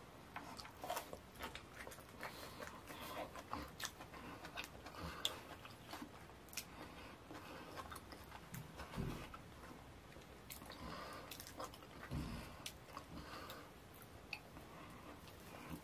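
Close-miked chewing of fufu and ogbono soup eaten by hand: soft, wet mouth sounds with many small irregular clicks and smacks.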